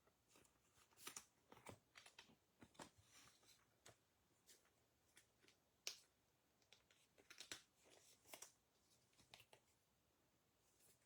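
Near silence with faint, irregularly spaced clicks and rustles of trading cards being handled, the sharpest click about six seconds in.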